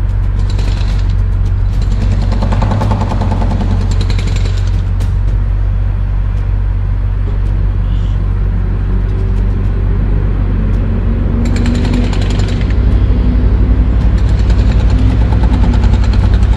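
Heavy machinery running with rapid, steady mechanical hammering, as from a demolition breaker. It gets louder and heavier about three-quarters of the way through.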